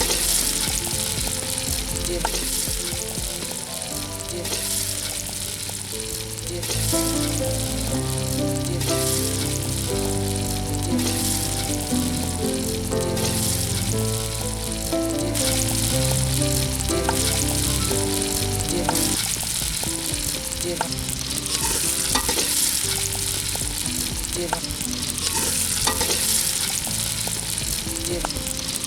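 Food frying and sizzling in hot oil in a cooking pot, with a utensil stirring and scraping against the pot, giving small scattered clicks over a continuous hiss.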